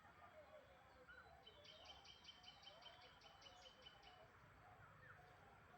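Faint, distant birdsong: a rapid run of about a dozen short, high repeated notes lasting a couple of seconds, over scattered soft chirps.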